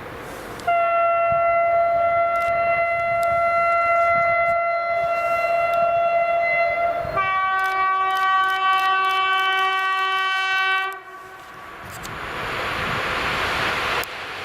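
Electric locomotive horn of a PKP EP07 sounding one long high note for about six seconds, then switching to a lower note for about four more. As it stops, the rushing noise of the passing train swells near the end.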